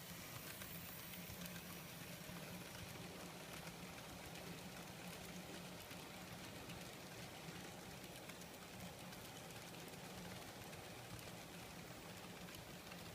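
Kato N scale GE C44-9W model locomotive running steadily with a low motor hum, while its wheels and those of the tank cars make faint, light clicking on the track.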